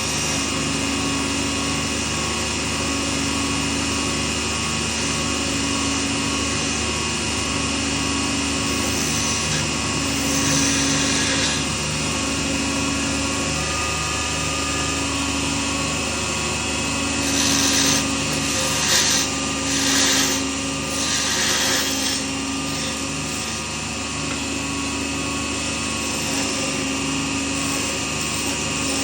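Small lathe running steadily with a constant motor hum. The workpiece is worked against it in hissing surges about ten seconds in and again from about eighteen to twenty-two seconds.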